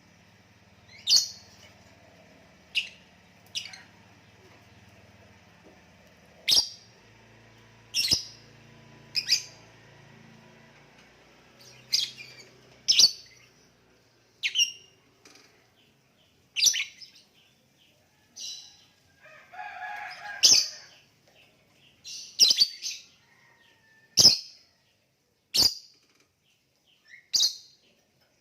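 Lovebird giving short, sharp, high-pitched chirps one at a time, spaced irregularly a second or two apart, with a brief burst of lower chattering about two-thirds of the way through.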